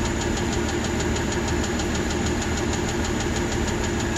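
Aston Martin DB9 6.0-litre V12 running steadily, with a rapid, even ticking over the engine note: the 'dreaded tick' these engines are known for.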